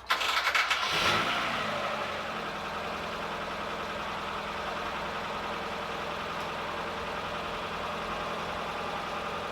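Mazda Miata four-cylinder engine starting: a second of rapid cranking and firing, a quick rev that falls back, then a steady idle.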